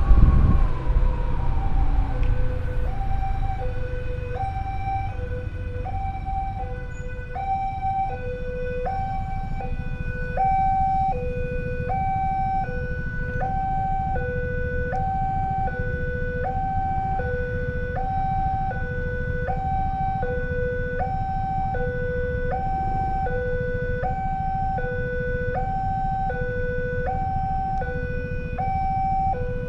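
Two-tone hi-lo emergency-vehicle siren alternating between a low and a high note, each held about three-quarters of a second, repeating steadily from about two seconds in. A falling siren sweep comes just before it, and a steady low rumble runs underneath.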